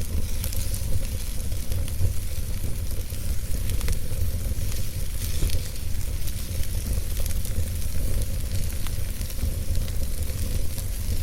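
Wood fire burning in a fireplace, crackling with frequent small irregular pops and snaps over a steady hiss and low rumble.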